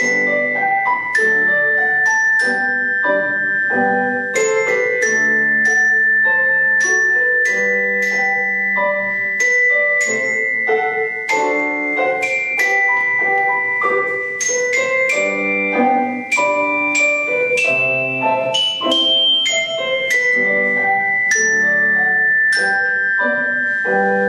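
Tuned mallet percussion playing a lively melody of quick, ringing struck notes, with lower sustained notes underneath.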